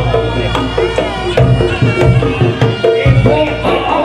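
Reog Ponorogo music: kendang drums beating in a steady pattern, with held struck tones and a wavering, ornamented melody that bends up and down, in the manner of the slompret reed trumpet.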